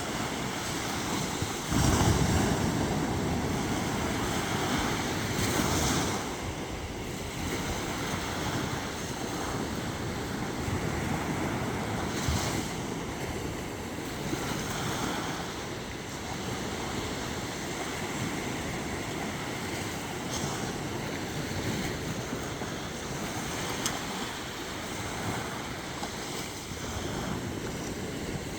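Sea waves washing onto the shore in a steady surf, with louder waves breaking about 2 and 6 seconds in, and wind rumbling on the microphone.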